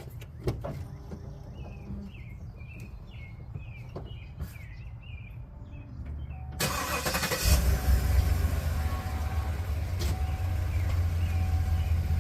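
2015 GMC Yukon Denali's 6.2-litre V8 cranking and catching about two-thirds of the way in, then idling steadily. Before it, a few sharp clicks.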